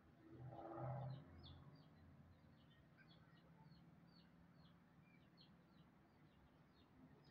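A small bird repeating short, high chirps, about two or three a second, faint. A brief, louder low animal call comes about half a second in.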